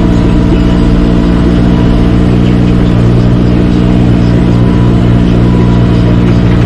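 Tractor engine running at a steady speed, an even, unbroken drone.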